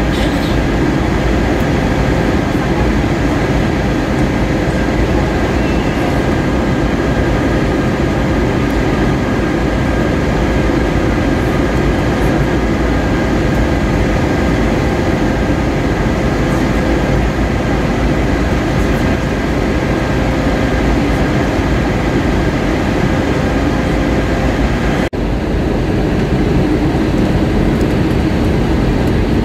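Steady cabin noise of an Airbus A320-232 in flight: the even roar of airflow and its IAE V2500 engines heard from a passenger seat, with a faint steady whine over it. A brief break about 25 seconds in.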